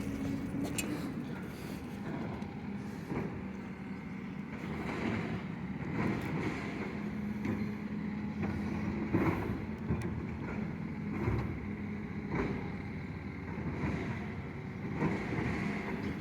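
Garbage truck running, a steady engine hum with occasional knocks and clanks.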